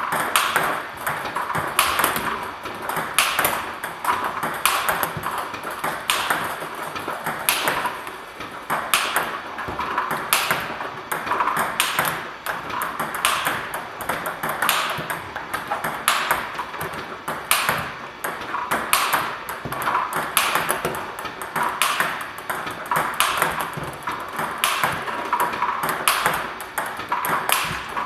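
Table tennis ball in a steady rally, clicking off the racket of a TSP Hino-Carbon blade with tacky rubbers (Nittaku Hurricane Pro 3 Turbo Blue, VICTAS Triple Double Extra) and bouncing on the table. A louder click comes about every second and a half, with fainter bounces between.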